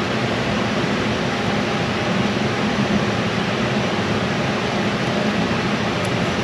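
Steady rushing noise of a running fan, with a faint click about six seconds in.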